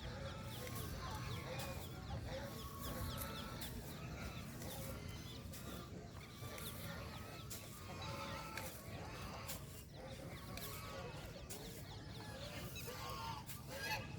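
A flock of chickens clucking and calling over one another, with fainter high chirps mixed in.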